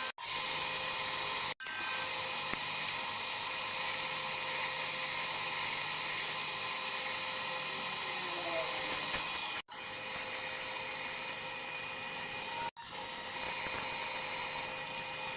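Power drill running steadily with a high-pitched whine. It cuts out abruptly three times and starts again at once.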